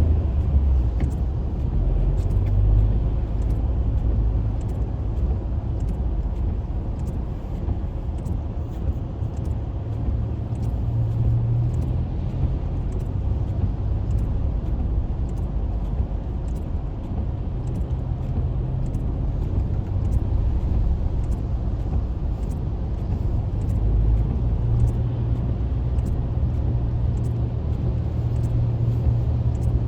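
Road noise heard from inside a moving car on a highway in rain: a steady low rumble of engine and tyres, with faint, evenly spaced ticks throughout.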